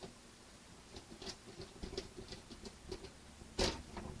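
Light, irregular clicks and taps of small plastic model parts and a small screw being handled and fitted, with one sharper click near the end.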